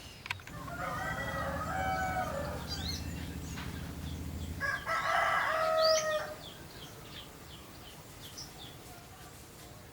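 Rooster crowing twice in a row, two long calls, the second ending with a falling tail, while small birds chirp in the background.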